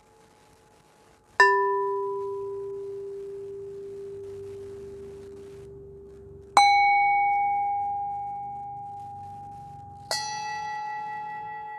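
Three single strikes on ringing metal instruments, each tone sounding out clearly and fading slowly; the first is lower-pitched, the next two higher.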